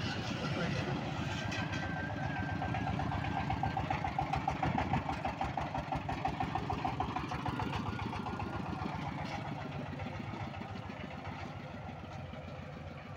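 Single-cylinder diesel engine of a motor van (bhotbhoti) loaded with sixty cement bags, running with a steady rapid chugging. It grows louder about four to six seconds in, then fades gradually as the van pulls away.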